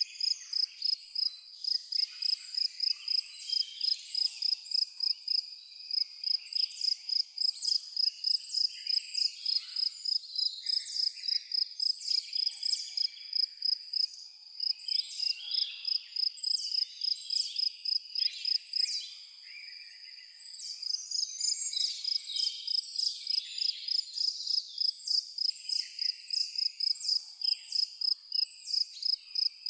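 A high-pitched insect chirp pulsing evenly about three times a second, with many birds calling and twittering over it; the pulsing stops for about a second around two-thirds of the way through, then resumes.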